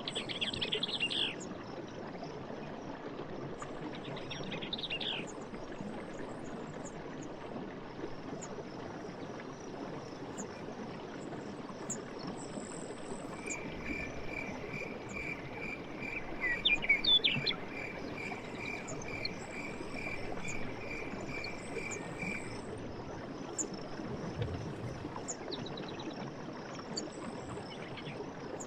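Forest night ambience: a steady high insect chorus over a soft background hiss, with short bird chirps near the start, around five seconds in and loudest about seventeen seconds in. From about thirteen seconds in, a pulsed call repeats about twice a second for some nine seconds, then stops.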